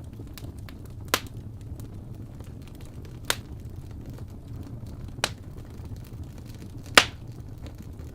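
Wood fire burning in a fireplace: a steady low rumble with soft crackling, broken by four loud sharp pops about two seconds apart, the last the loudest.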